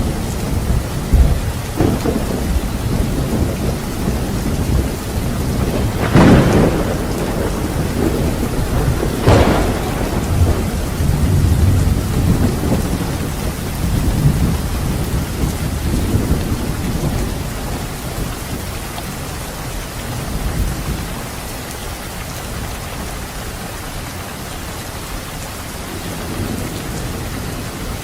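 Steady heavy rain in a thunderstorm, with rolling thunder. Two sharp thunderclaps come about six and nine seconds in, and the low rumbling dies away in the second half, leaving the rain.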